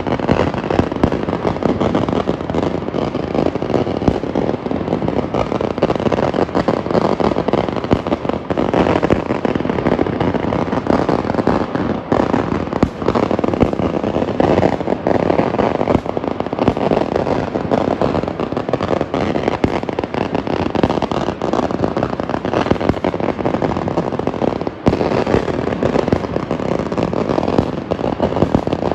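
Firecrackers going off in a dense, continuous crackle of rapid bangs, with no break.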